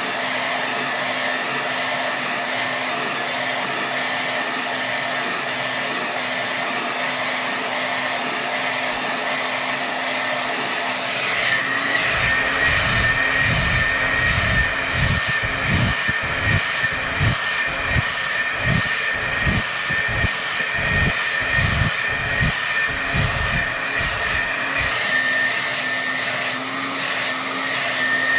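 Hair dryer running at full power: a steady rush of air with a thin high whine. A little before halfway the whine shifts slightly, and a low, irregular buffeting rumble comes in, fading out shortly before the end.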